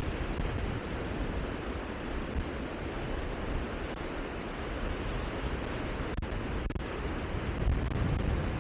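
Steady rushing wind, with low rumbling buffeting on the microphone.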